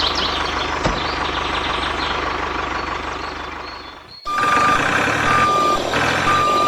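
A small motor runs steadily. About four seconds in, the sound cuts off sharply and a vehicle reversing alarm starts beeping, about once a second with each beep lasting half a second, over a running motor.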